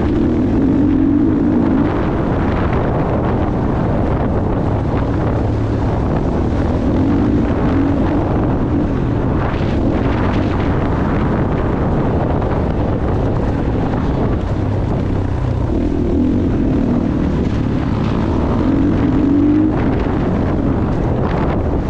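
Motocross dirt bike engine running hard, its revs rising and falling in repeated surges, with wind buffeting the microphone.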